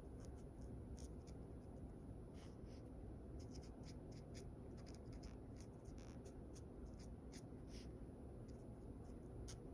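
Faint, quick scratching strokes of a drawing tool on paper, coming in short irregular flurries.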